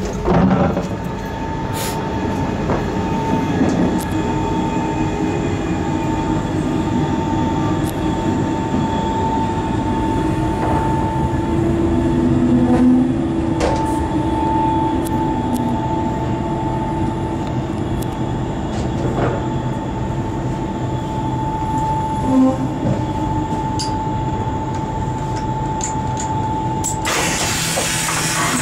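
SNCB train running on the rails as it comes into the station: a steady rumble with a constant high whine and scattered clicks. A loud hiss starts near the end.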